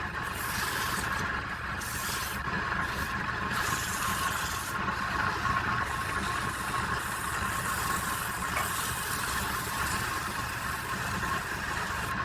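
Woodturning lathe running steadily with a constant whine and hiss.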